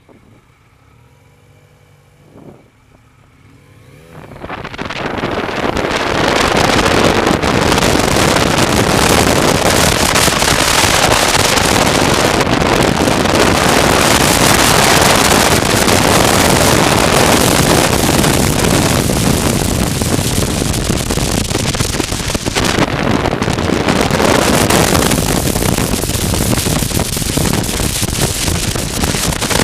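Motorcycle engine running quietly, then from about four seconds in a loud rush of wind noise on the microphone builds as the bike picks up speed and holds, largely covering the engine.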